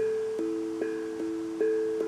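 Vibedrum steel tongue drum struck in a steady pattern, about two and a half strikes a second, alternating between two ringing notes whose tones sustain and overlap.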